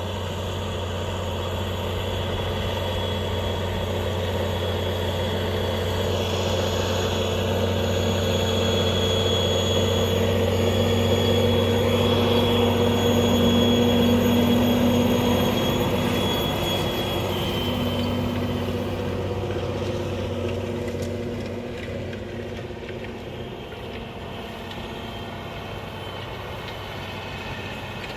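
Tractor engine working steadily while ploughing, growing louder to a peak about halfway through, then fading as it draws away.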